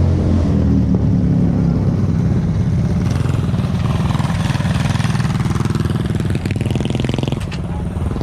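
A mini drag bike's small engine running steadily at low revs.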